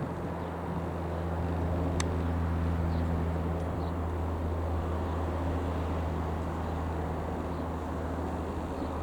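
De Havilland Canada DHC-6-300 Twin Otter turboprop running with a steady, even-pitched low propeller drone. A single sharp click comes about two seconds in.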